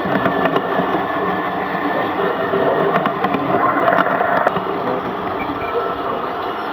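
Steady hiss and running noise of a 16mm-scale live-steam garden railway locomotive under way, with scattered small clicks.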